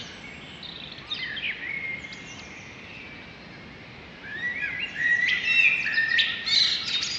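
Songbirds chirping and singing over a steady background hiss, with a few scattered chirps at first and a busy, louder stretch of overlapping calls from about four seconds in.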